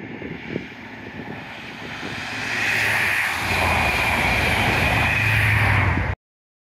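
Diesel High Speed Train (Class 43 power car hauling Network Rail's yellow measurement coaches) approaching and passing at speed: a rising rumble that builds into a loud high whine over a low engine drone as it goes by. The sound cuts off suddenly about six seconds in.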